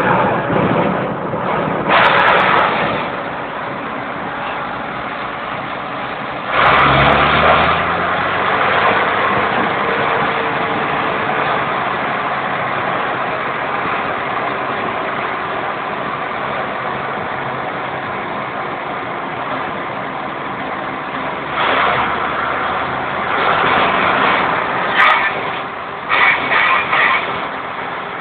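Deutz tractor diesel engines running as tractors drive by, one revving up with rising pitch about six and a half seconds in, and more loud bursts of engine noise near the end.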